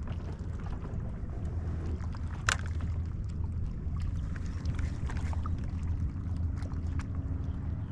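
Steady low wind rumble on the microphone with light handling and water noise, and one sharp click about two and a half seconds in.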